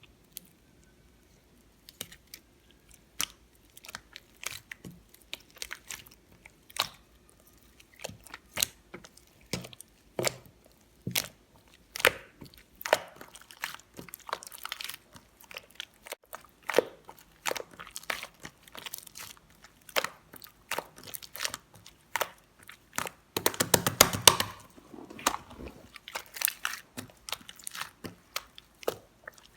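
Slime being squished and poked by hand, giving irregular sticky clicks, pops and crackles, with a dense run of crackling a little before the end.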